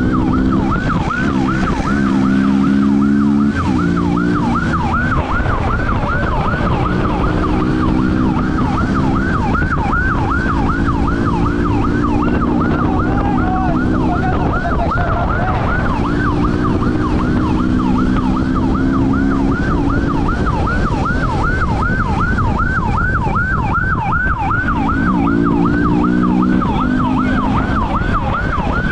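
Police siren in a fast yelp, quick rising sweeps about three a second, over a vehicle engine revving hard in spells of a few seconds at a time.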